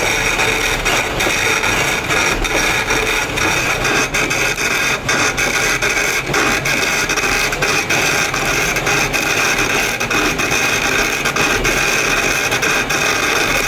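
Power tool working stone, running steadily with a continuous gritty noise and faint clicks throughout.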